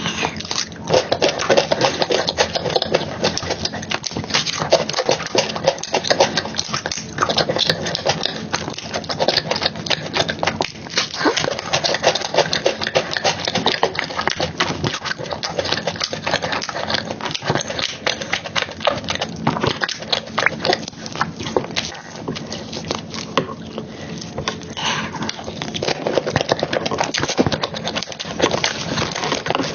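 Close-miked mukbang eating sounds: wet chewing, squelching and lip smacking on a soft chocolate dessert with cake and cream, a dense run of small irregular clicks.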